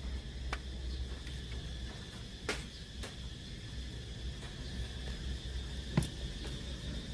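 A steady low hum with a few sharp clicks, the loudest about six seconds in.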